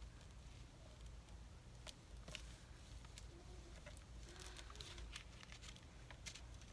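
Near silence, with faint scattered ticks and light rustles of paper cutouts being handled and pressed flat onto a collage page.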